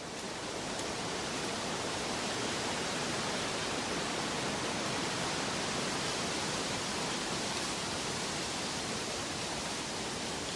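A steady, even rushing noise from a relaxation nature-sound track, like falling water. It swells up over the first second or so, then holds level.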